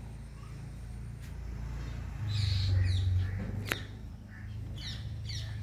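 Small birds chirping in short, quick falling notes, in two bouts, over a steady low rumble that swells about two seconds in. A single sharp click near the middle.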